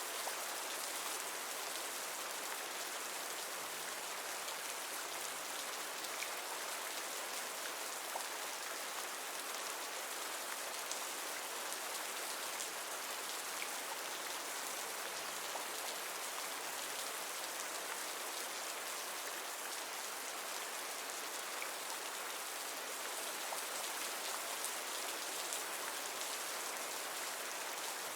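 Steady rainfall, an even hiss of rain on a surface with faint scattered drop ticks.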